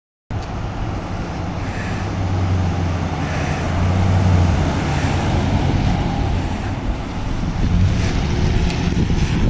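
Fire engine's diesel engine running steadily with a low, even hum, with traffic noise around it. The sound cuts in suddenly just after the start.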